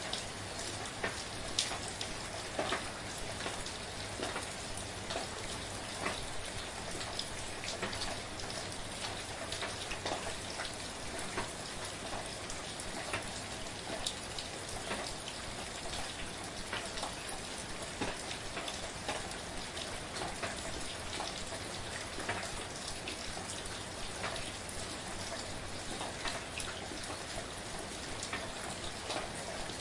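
Steady, gentle rain falling, an even hiss with many individual drops ticking sharply on a nearby surface scattered through it.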